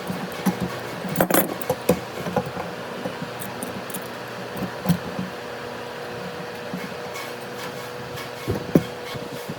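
Scattered short knocks and taps over a steady mechanical hum, with a cluster of knocks about a second in and a few more near the end.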